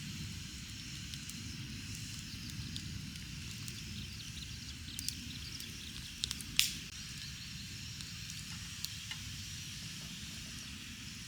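Wood campfire crackling and hissing steadily, with scattered small pops and one sharp, loud snap about six and a half seconds in.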